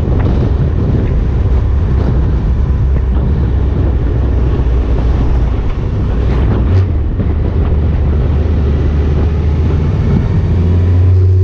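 Motorcycle engine running while riding, with heavy wind rushing over the microphone. Near the end the rushing thins and the engine's low hum becomes steadier and a little louder.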